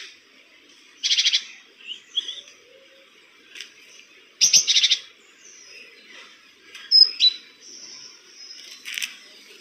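Eastern grey squirrel chattering: short bursts of rapid, high, clicking calls a few seconds apart, with faint bird chirps and a short whistle in between.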